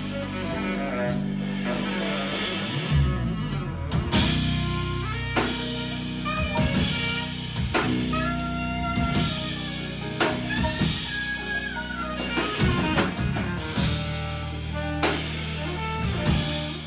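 A small jazz group playing live: drum kit, guitar and bass under a melody line of held notes.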